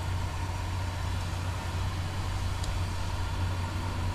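Kenworth T680 semi truck's diesel engine running steadily as the truck drives slowly, a low even drone.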